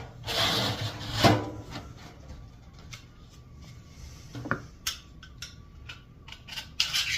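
Galvanized sheet metal panels being handled and fitted together: a scraping, rubbing rush in the first second and a half, then several light metallic clicks and knocks as the seams are seated.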